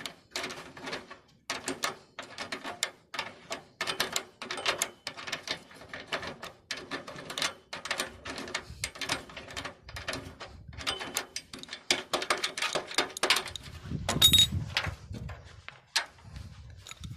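Irregular sharp knocks and scrapes of hand work on wheelbarrow metal, a few strokes a second, with a low rumble near the end.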